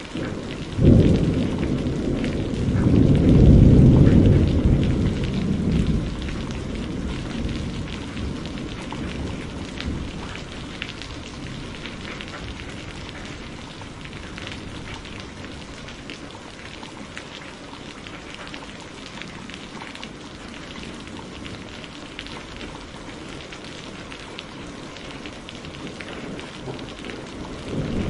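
A thunderclap breaks about a second in and rolls into a deep rumble that swells and then fades over several seconds. Steady heavy rain continues beneath, with scattered sharp crackles from a burning wood fire. A new rumble of thunder begins right at the end.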